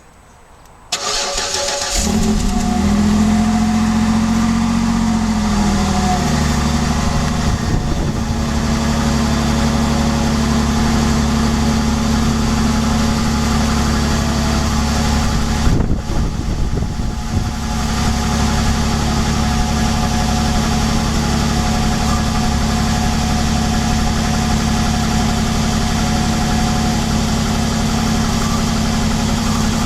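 Old vehicle engine cold-started: the starter cranks for about a second, then the engine catches and runs at a fast idle that dips and settles into a steady idle.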